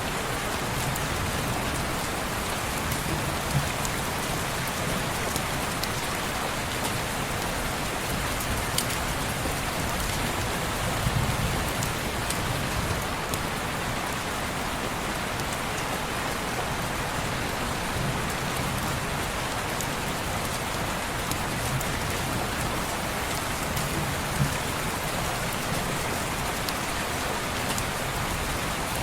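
Steady rain falling on a window pane, with scattered sharp ticks of single drops.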